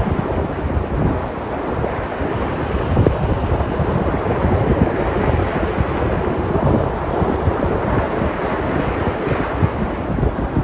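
Sea surf breaking and washing on the shore, a steady rushing with wind buffeting the microphone.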